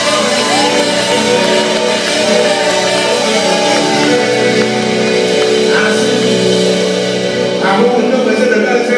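Live blues band playing amplified music, with long held notes and some sliding pitches, and a voice singing at times.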